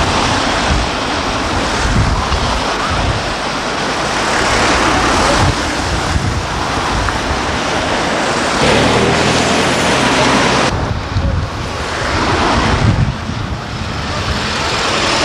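Loud, gusting wind on the microphone, with vehicle engines running underneath.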